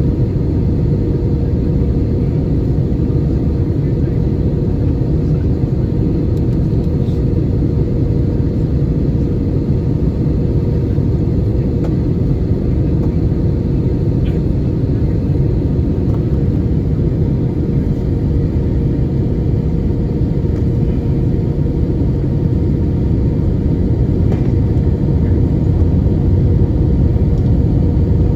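Cabin noise of an Airbus A320-200 in flight: a steady deep rumble of engines and airflow with a faint constant hum above it.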